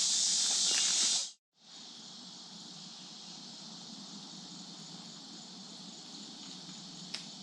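Steady, high-pitched chorus of insects. It is loud at first, cuts out about a second in, and comes back quieter after a brief gap. There is one faint click near the end.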